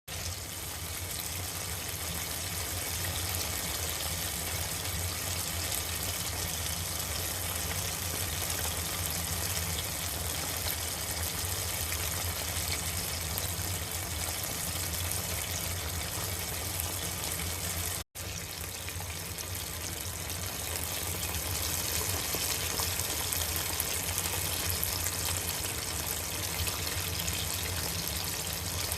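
Karaage pieces deep-frying in hot oil: a steady, dense sizzle of crackling bubbles, with one momentary gap about two-thirds of the way through.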